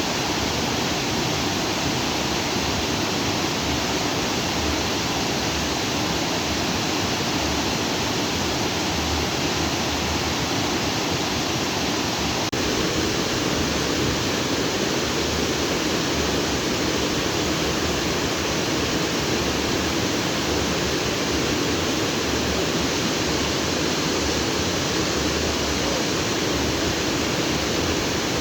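Stream water flowing freely over and between rocks: a steady, full rushing.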